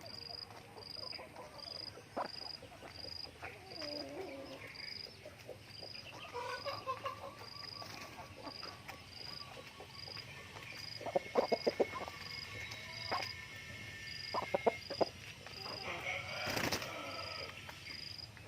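Chickens clucking and calling in short bursts, with quick runs of clucks about two-thirds of the way through. A steady high-pitched chirp repeats about twice a second underneath, and there is a brief sharp noise near the end.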